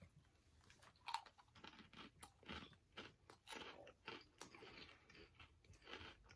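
A person chewing a mouthful of Fritos Flamin' Hot BBQ corn chips: a run of faint, irregular crunches that starts about a second in and goes on, two or three a second.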